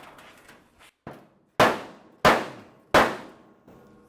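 Sheet-steel trunk lid of a 1928 Ford Model A being struck to bend it into shape: one light clang about a second in, then three loud, evenly spaced ringing clangs.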